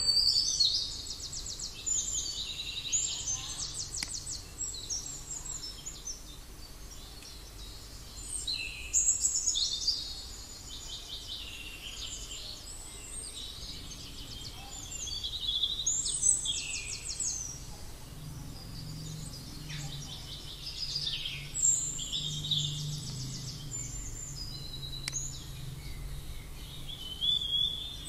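Birds singing: trilled and chirping phrases repeated every few seconds, over a faint low hum.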